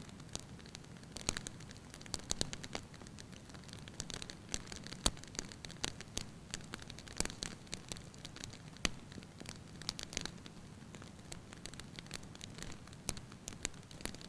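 Wood fire in a fireplace crackling, with irregular sharp pops and snaps over a steady low background of the burning; a couple of louder pops stand out about five and nine seconds in.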